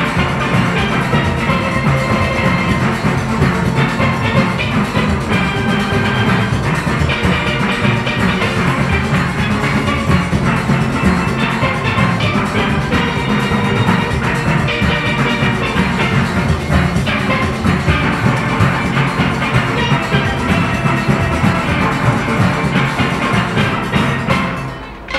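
Steel orchestra of about forty players playing a fast calypso arrangement, with many pans sounding together over a steady drum and percussion rhythm. The sound dips briefly near the end.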